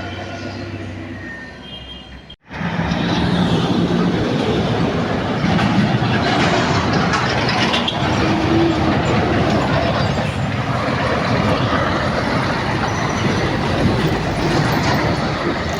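Old truck running loudly at close range: a dense, steady mechanical noise. It breaks off for a moment about two seconds in, then comes back at full level.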